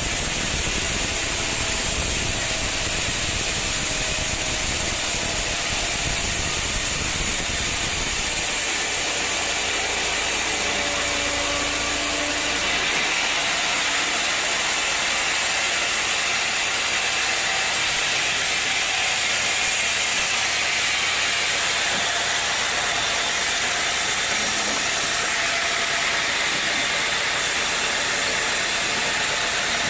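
Sawmill machinery running with a steady mechanical noise and a hiss, changing abruptly about eight seconds in and again near thirteen seconds.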